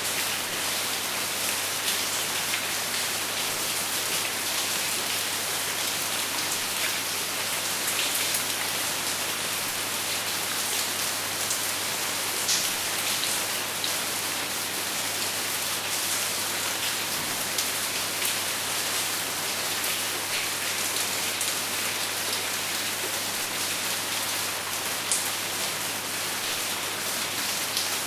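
Heavy rain with hail hitting a roof: a steady, dense patter with occasional sharper single hits.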